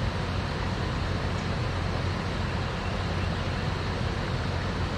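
Small creek waterfall rushing, a steady, even noise with a low rumble.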